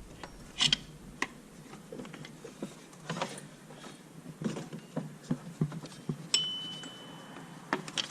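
Scattered metallic clicks, taps and clinks of hand tools working on engine parts. About six seconds in, one sharp metal ping rings on for nearly a second.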